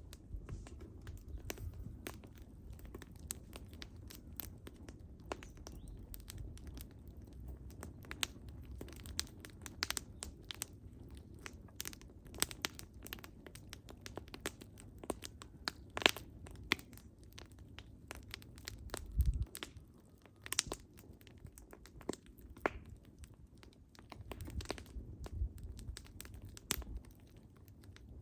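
Wood fire crackling: irregular sharp snaps and pops over a low rumble of the burning logs, with a few louder pops, the loudest about sixteen seconds in, and a low thud a little after.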